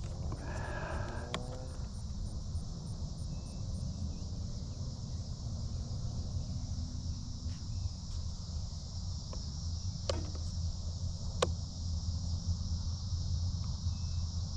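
Steady chorus of crickets and other summer insects trilling in a grassy field, over a low steady rumble, with a few sharp clicks about ten and eleven seconds in.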